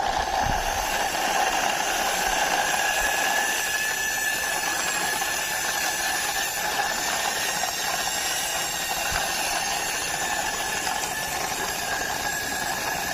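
Small plastic toy car pushed along by hand, its wheels rolling with a steady hiss and a faint high whine.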